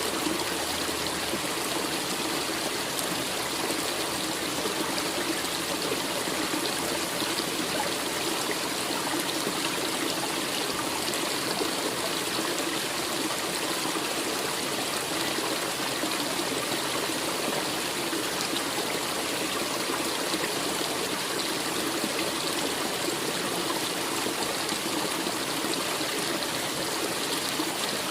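A stream running steadily: an even, continuous rush of flowing water that does not change.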